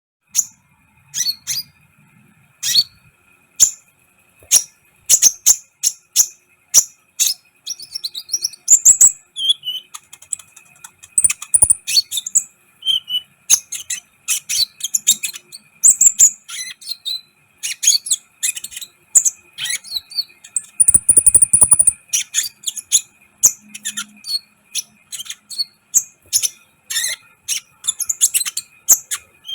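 Kolibri ninja (a sunbird) calling in a long run of sharp, high chirps and short trills, close together, over a faint steady tone.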